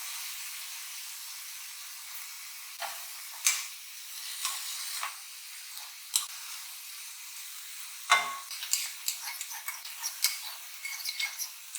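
Beef and broccoli sizzling in a hot pan while a spatula stirs, striking and scraping the pan now and then. The loudest clink comes about eight seconds in, followed by a run of quicker light taps.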